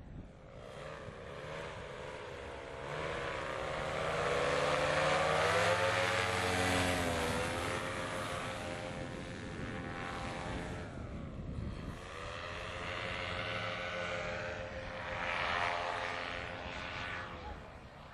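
Paramotor engine and propeller running, its pitch and loudness swelling and falling away twice: loudest a third of the way in and again near the end.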